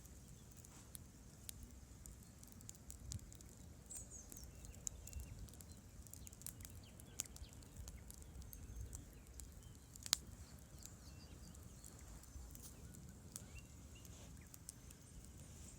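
Campfire wood crackling, with scattered sharp pops, the loudest about ten seconds in, over a steady low rumble.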